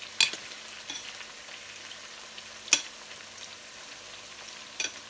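Garlic, onion and sliced carrots frying in hot oil in a pan, a steady sizzle. A few sharp clicks come about a quarter second in, near three seconds and twice near the end.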